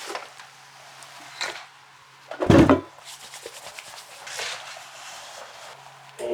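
Workshop handling noises: a few light knocks and one heavy wooden thump about two and a half seconds in, over a faint steady low hum.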